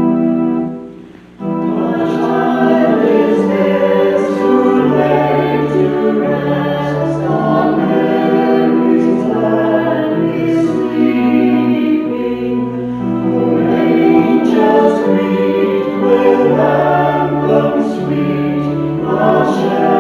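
A held organ chord ends about a second in, then a choir sings a hymn.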